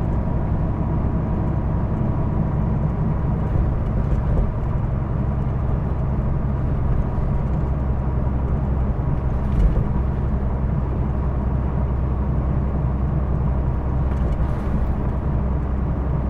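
Hino Blue Ribbon II city bus running, heard from inside the cabin: a steady diesel engine and drivetrain drone with road noise, and a brief bump about ten seconds in.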